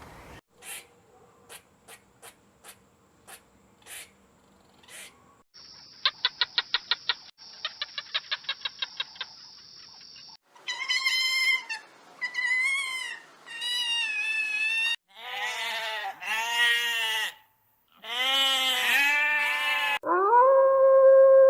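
A sequence of different animals' calls. Scattered clicks are followed by a fast, high chirping trill, then several high wavering pitched calls, and a long pitched call that begins near the end.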